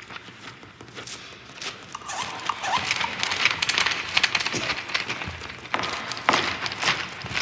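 Dense, layered clicking and tapping that builds up about two seconds in, with short rising squeaks mixed in.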